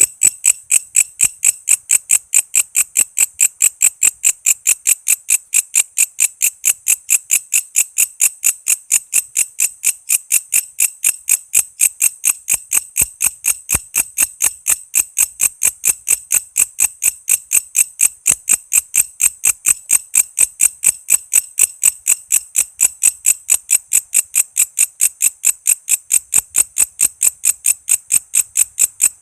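Walang kece, a katydid, calling: an unbroken run of short, sharp, high chirps at an even three to four a second.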